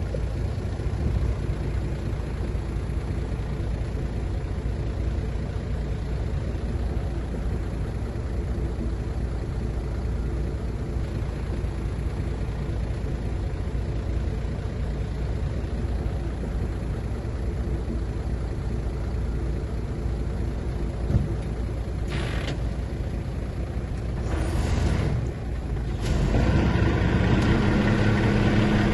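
Heavy diesel engine of earthmoving machinery running steadily, with short bursts of hiss about three-quarters of the way through. Near the end the engine gets louder.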